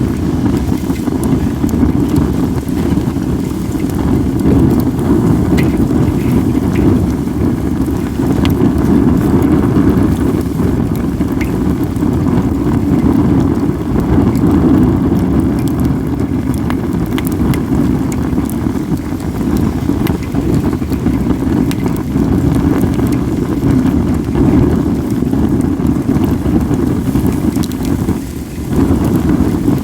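Wind buffeting the microphone as a steady low rumble, loudest throughout and easing briefly near the end, over faint scattered crackles and pops from a wood fire of acacia and other logs.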